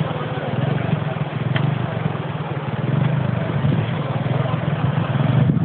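A motor-vehicle engine running steadily at an even speed, over a constant rushing noise.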